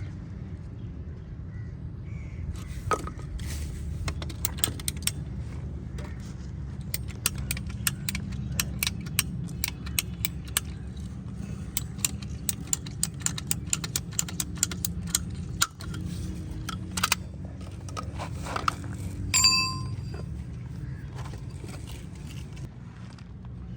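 A long run of quick, sharp metallic clicks and clinks from hand tools and fittings being handled, over a steady low hum, with one clear ringing metal ding near the end.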